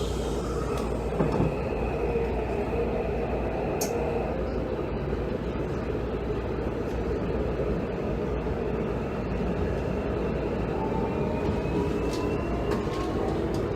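A Hanshin 5700 series "Jet Car" electric commuter train running, with a steady rumble of wheels on rail and traction equipment. Near the end a rising electric motor whine comes in as the train picks up speed.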